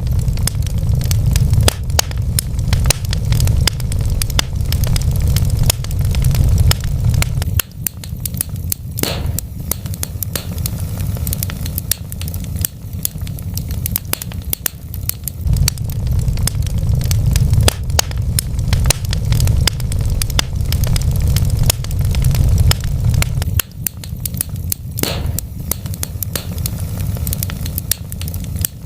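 Wood fire crackling steadily with many small irregular pops and snaps over a low rumble. Twice, about a third of the way in and near the end, a louder snap stands out.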